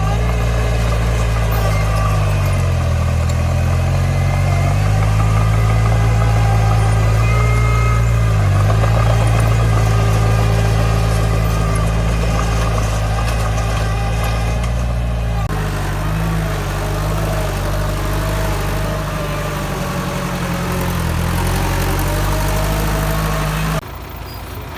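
Heavy earthmoving machine's diesel engine running steadily with small rises and falls in pitch. The sound changes abruptly about two-thirds of the way through and drops suddenly in level near the end.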